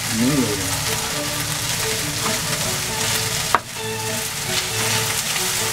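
Pork sizzling in a hot wok as it is stir-fried and stirred with wooden chopsticks, a steady frying hiss with a single sharp click about three and a half seconds in.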